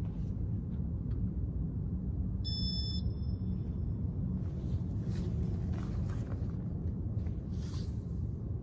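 Casablanca Victorian ceiling fan running at speed 5, its blades moving air in a steady low rumble, with faint rustles. A short high electronic beep sounds about two and a half seconds in.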